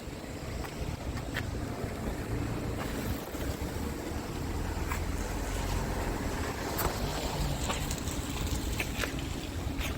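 Scania G450 truck's 13-litre straight-six diesel engine running steadily with a low rumble, a few faint clicks over it.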